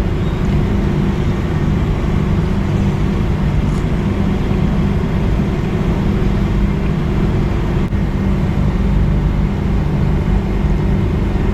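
Steady low rumble of outdoor background noise, such as traffic or machinery hum, with no distinct events standing out.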